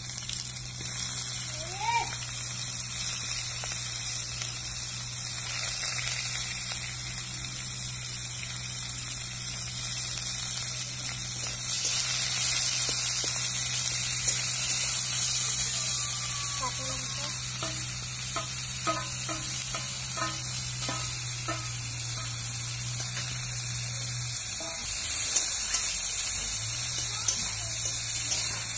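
Sliced onions, bay leaves and green chillies sizzling in hot oil in an iron wok, with a steady hiss that grows louder about twelve seconds in. A metal spatula stirs them, scraping and clicking against the pan in a run of short knocks past the middle.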